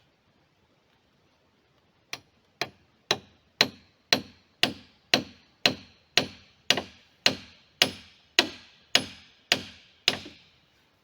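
A hammer striking steadily, about two blows a second, each with a sharp ring, starting about two seconds in: driving a nail or spike into timber during cabin construction.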